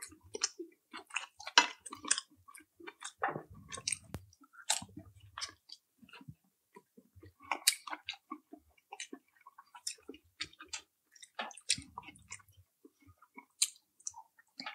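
A person chewing food close to the microphone, with many irregular wet smacks and clicks of the mouth.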